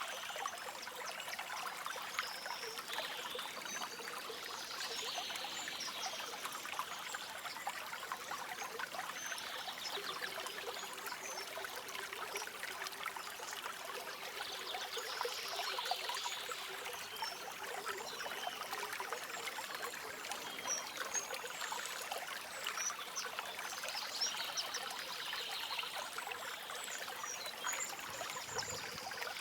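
A stream trickling and babbling steadily, with short high chirps from small birds scattered through it.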